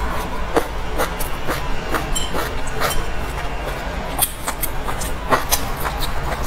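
Close-miked mouth sounds of someone chewing food: irregular wet smacks and clicks over a steady low hum.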